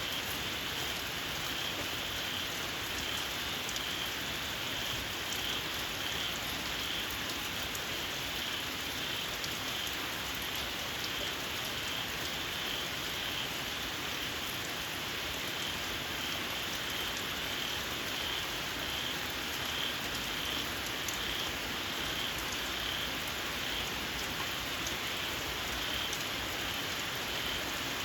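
Steady rain falling, with a shrill, evenly pulsing chorus of small field frogs calling through it.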